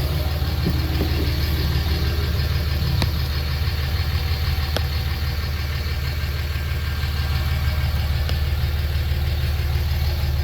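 2005 Dodge Ram 2500's 5.9-litre Cummins inline-six turbo diesel idling steadily, with a few faint clicks.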